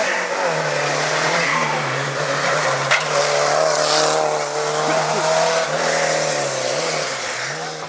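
Rally car engine running hard at high revs, the pitch stepping slightly and dipping briefly near the end as the driver lifts and reaccelerates, with a sharp crack about three seconds in and tyres scrabbling on the surface.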